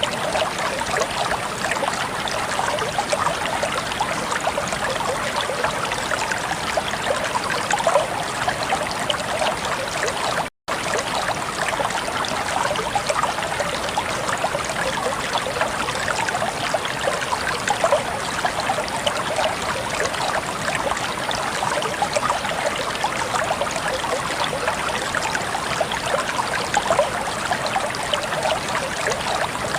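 Clear water of a natural stream flowing and babbling steadily over stones. The sound cuts out for a split second about a third of the way in.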